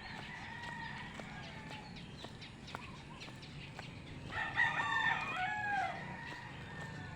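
Rooster crowing once, about four seconds in: a drawn-out crow of about a second and a half that falls away at the end.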